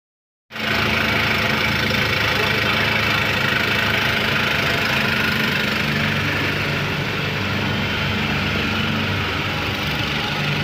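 Volvo excavator's diesel engine running steadily, heard from inside the operator's cab, with a steady hiss above its low hum. The sound cuts in suddenly about half a second in.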